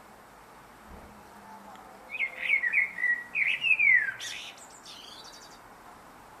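Common (Eurasian) blackbird singing one song phrase: low, fluty warbled notes sliding downward, ending in a brief high, squeaky twitter.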